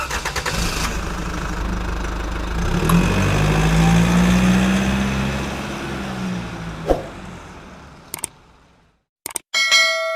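An engine starting with a rapid clatter, revving up and back down, then dying away over several seconds. A short ringing chime comes in near the end.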